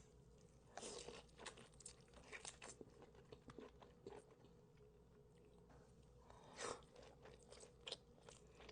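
Faint, close-miked eating sounds: biting and chewing seafood, with scattered crunches and wet clicks, strongest about a second in and again near the two-thirds mark.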